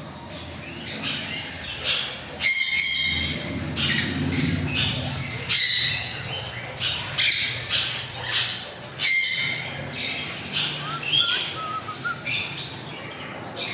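Parrots squawking, several loud harsh calls a few seconds apart with smaller chirps between them.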